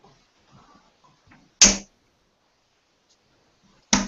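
Two darts striking a dartboard, each a sharp thud, about two seconds apart.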